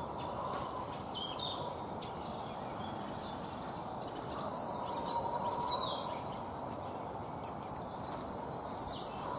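Small birds giving scattered high chirps and short calls over a steady low rushing background noise.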